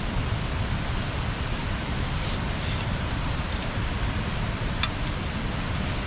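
Wood bonfire burning: a steady rushing hiss with a low rumble, broken by a few small crackles and one sharp pop about five seconds in.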